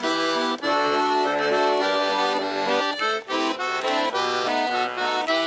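Russian garmon (button accordion) playing an instrumental passage between sung verses of a folk song, chords and melody notes changing in a brisk rhythm.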